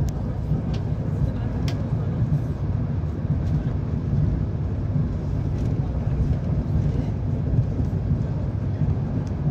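Passenger train running along the track, heard from inside the carriage: a steady low rumble with a few faint clicks and rattles in the first few seconds.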